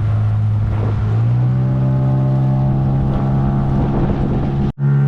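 Motorboat engine running steadily, its pitch rising a little about a second in as it speeds up, then holding. The sound cuts out for an instant near the end.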